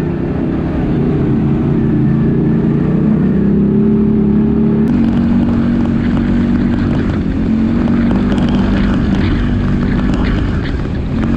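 ATV engine running steadily under way, its drone held at a fairly even pitch. From about five seconds in, a rougher crackling noise with scattered ticks joins it.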